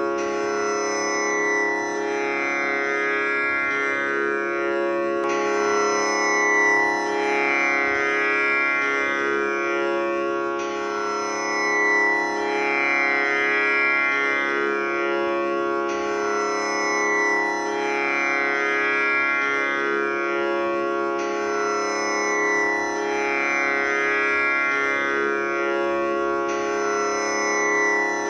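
Tanpura drone tuned to C#, its strings plucked in turn in a cycle that repeats about every five seconds, with dense ringing overtones that swell after each pluck.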